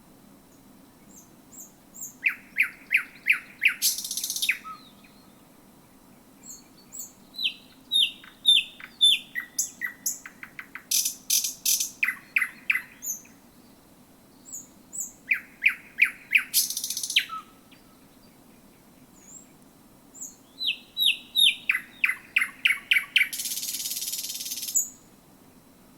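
Thrush nightingale singing in several phrases separated by short pauses: fast series of loud repeated notes and whistles, some phrases ending in a dry rattle. A faint steady low hum runs underneath.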